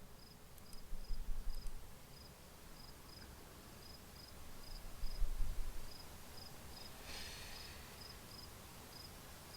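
Crickets chirping at night: short high chirps repeating evenly, two or three a second, with a few low thuds now and then.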